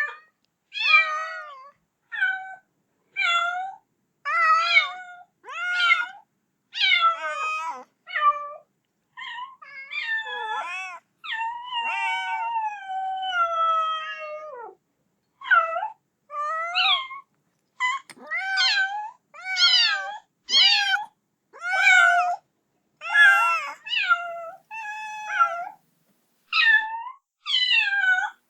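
Kitten meowing over and over, calling for its mother: short meows about one a second, with a few longer drawn-out cries about halfway through, the last sliding down in pitch.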